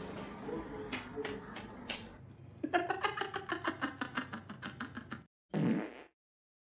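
A long fart-like rasp, fluttering rapidly and slowly falling in pitch for about two and a half seconds, followed by one short burst. A few faint clicks come before it.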